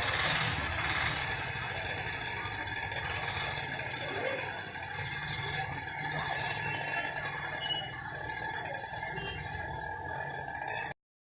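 Heavy monsoon rain falling steadily, mixed with the low sound of a running vehicle engine. The sound cuts off abruptly near the end.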